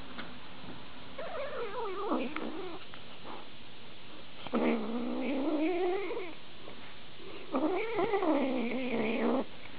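Kitten crying out three times in long, wavering calls of about two seconds each.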